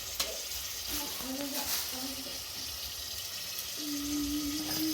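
A steady hiss under a person's voice, which makes short sliding sounds and then holds one long even note near the end.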